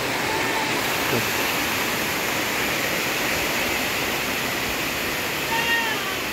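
Heavy tropical rain pouring steadily. A cat meows once near the end, with a fainter meow early on.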